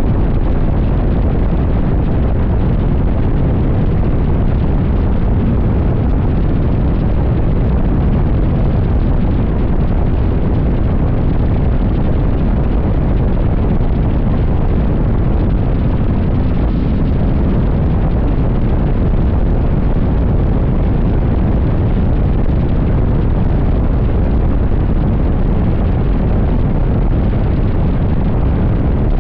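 Wind rushing over and buffeting the microphone of a motorcycle at highway speed, a loud, steady low rumble of wind noise that covers the engine.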